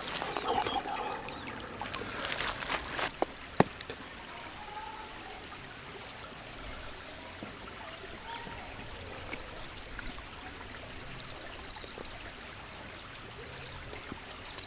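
River water flowing steadily. In the first three seconds there is some irregular clattering, and a single sharp knock comes about three and a half seconds in.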